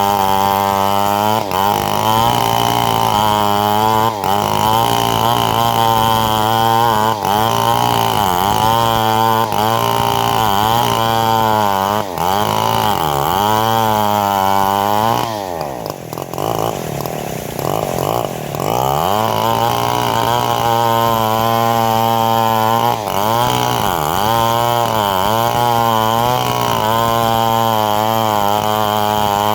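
Engine-driven homemade bandsaw mill sawing a mahogany log, the engine running hard under load with its pitch sagging and recovering every second or two as the blade bites. About halfway through it bogs down deeply for a few seconds, then picks back up; a steady high whine runs under it.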